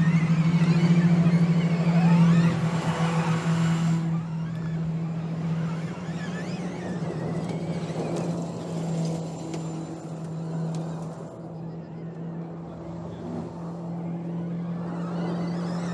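Audi RS Q e-tron Dakar rally car running off-road: a steady hum holding one pitch, loud for the first couple of seconds and then fainter.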